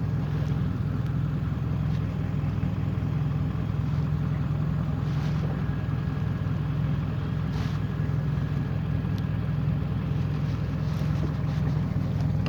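A vehicle engine running steadily with an even, low hum and no revving.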